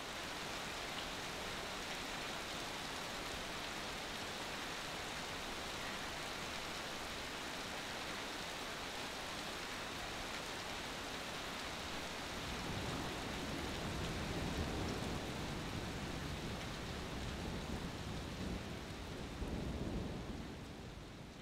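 Steady rain falling, an even hiss. In the second half a low rumble swells in and out beneath it, and the sound fades near the end.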